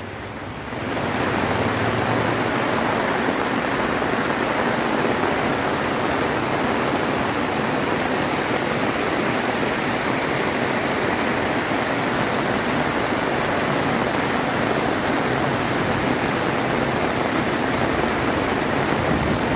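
Heavy tropical rain pouring down in a dense, steady hiss, swelling up within the first second.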